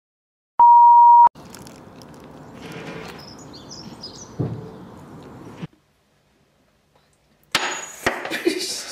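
A single loud, steady electronic beep lasting under a second, followed by faint outdoor background noise with a few bird chirps that cuts off abruptly. A louder, rougher noise starts near the end.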